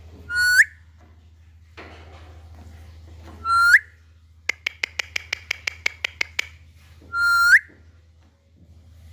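Alexandrine parakeet whistling: three short, loud rising whistles a few seconds apart. Between the second and third comes a fast run of about a dozen sharp clicky notes, some six or seven a second.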